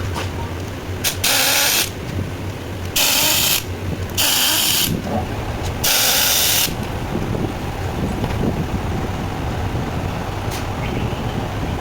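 Four short, loud bursts of hissing, each under a second, over a steady low hum.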